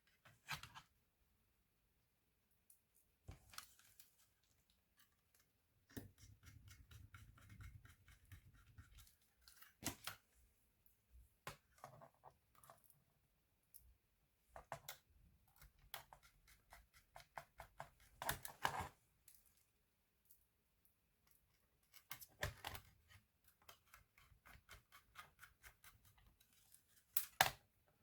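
Scattered small clicks, taps and short scrapes of hands working on a laptop's plastic case and parts, some clicks in quick runs.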